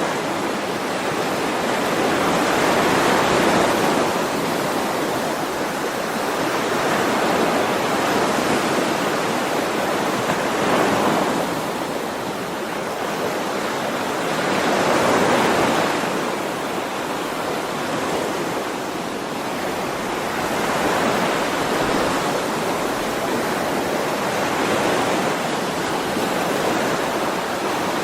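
Ocean waves breaking and washing on a shore, a continuous surf hiss that swells and ebbs every three to four seconds.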